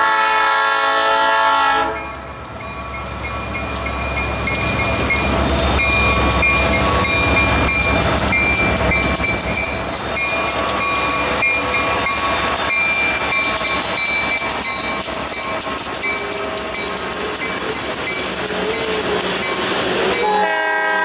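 EMD GP40 diesel locomotive's air horn sounding a blast that ends about two seconds in, then the locomotives passing with a low rumbling engine sound. Covered hopper cars follow, rolling by with steady wheel clatter and clicking over the rail joints.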